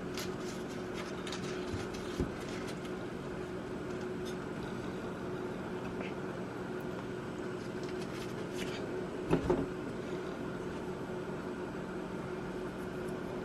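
Steady hum of a running kitchen appliance, with a light knock about two seconds in and a short clatter about nine seconds in.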